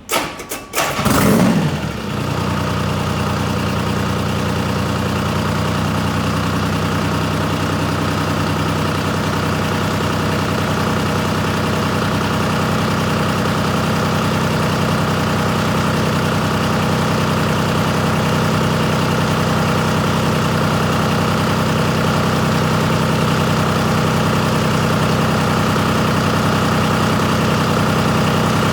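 1981 John Deere 4219DF four-cylinder diesel engine cranking and catching, revving up briefly, then settling within about two seconds into a steady idle that holds through the rest.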